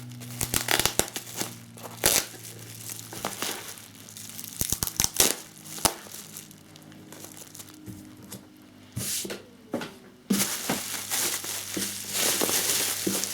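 Plastic bubble wrap crinkling and rustling as it is unwrapped by hand, in irregular crackles that grow denser and louder near the end.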